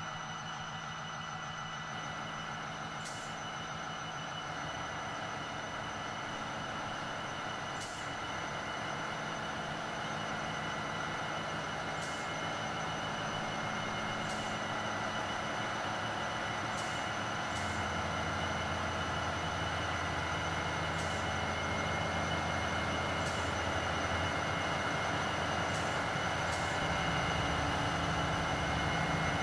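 Train running slowly and steadily, growing gradually louder, with a few steady whining tones and a faint click every few seconds.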